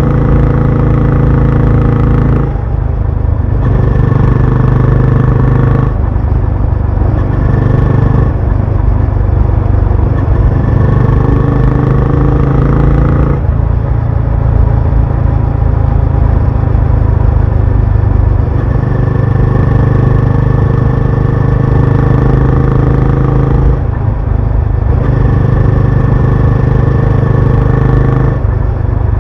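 Benelli Imperiale 400's single-cylinder engine and exhaust on the move, holding a steady note. Several times the note drops out briefly and comes back at a different pitch.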